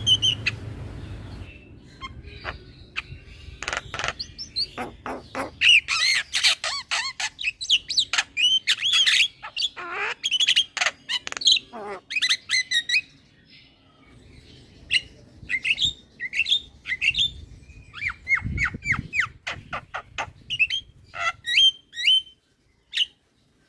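Javan mynas calling and chattering: a fast, busy run of harsh squawks, clicking notes and short whistled chirps, thinning out to scattered calls in the second half.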